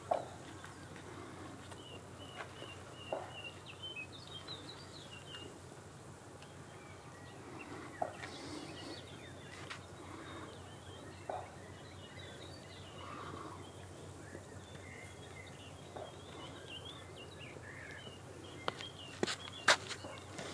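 Outdoor background noise with faint bird chirps, short repeated notes in two spells. Scattered sharp clicks or taps, with a few louder ones close together near the end.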